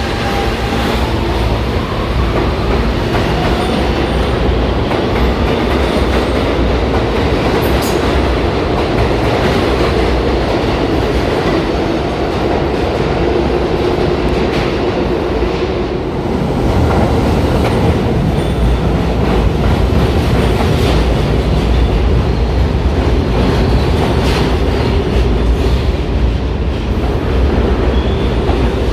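New York City Subway train running on the Broadway Line tracks at the station, wheels clattering over the rail joints. A motor whine rises in pitch near the start, and the low rumble grows louder about two-thirds of the way through.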